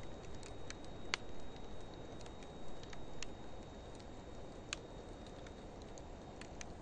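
Wood fire of driftwood mixed with dry hardwood logs burning: a steady low rush of flame with scattered crackles and pops, the sharpest about a second in and others around the middle.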